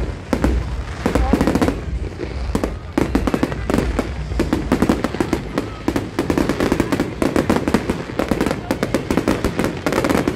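Aerial fireworks display going off, a rapid, unbroken string of bangs and crackles from bursting shells.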